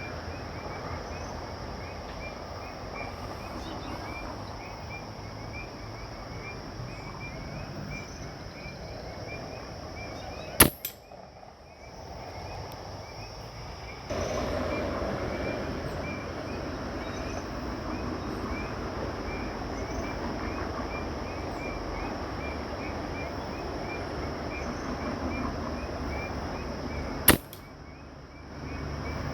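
Two air rifle shots, each a single sharp crack, about sixteen seconds apart. Steady chirping runs in the background between them.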